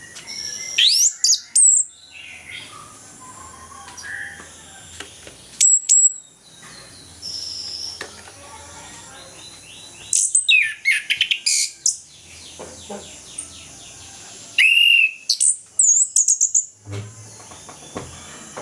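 Orange-headed thrush singing its full, open song in several loud bursts of sweeping whistles and quick trills, with short pauses between phrases.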